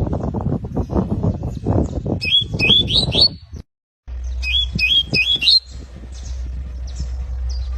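Canary calling: a quick run of four rising whistled notes, heard twice, the second time after a short silent break. The first run is over a jumble of low knocks and rumble, the second over a steady low hum.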